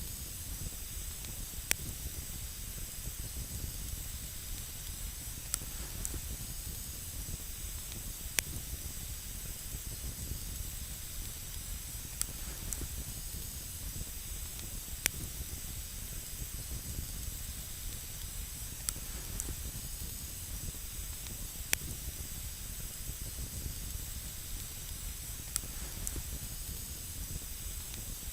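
Campfire burning on snow, a steady hiss with sharp single crackles every one to three seconds.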